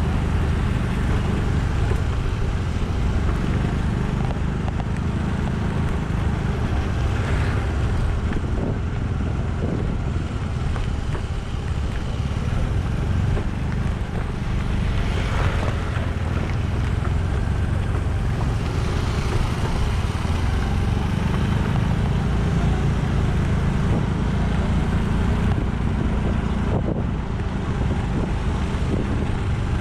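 Moving road vehicle: steady engine and road noise with wind rushing over the microphone.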